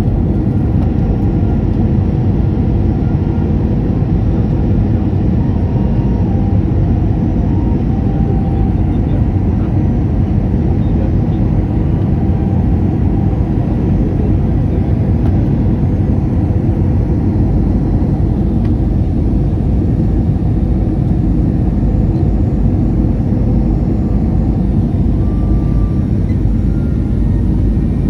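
Steady airliner cabin noise in flight: a constant, low rumble of engines and rushing air that holds an even level throughout.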